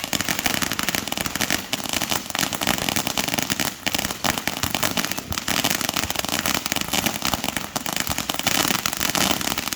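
Fireworks crackling and popping in a dense, rapid, unbroken barrage of many small bangs.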